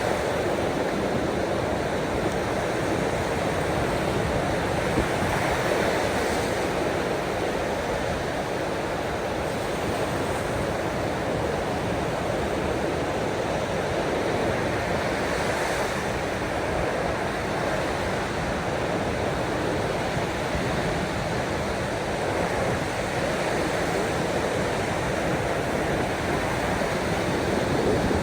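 Ocean waves washing on a shore: a steady rushing noise with only slight swells and no distinct breaks.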